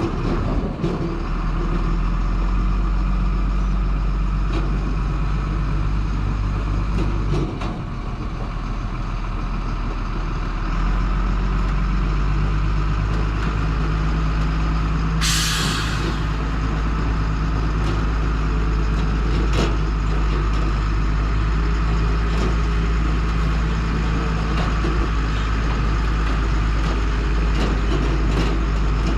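Stewart & Stevenson M1078 military truck's diesel engine running steadily under way, its note shifting about a third of the way through. About halfway in, a short sharp hiss of air comes from its air brake system.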